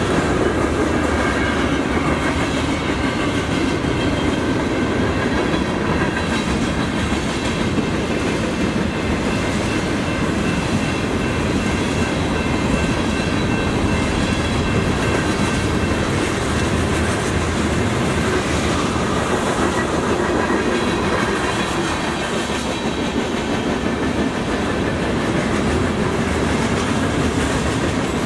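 Freight train of covered hopper cars rolling steadily past, a continuous wheel-on-rail noise.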